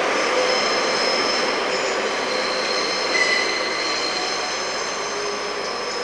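Leyland Pacer railbus rolling away on curved track, its wheels squealing in several high, steady tones over the rolling noise. The sound fades slowly as the train moves off.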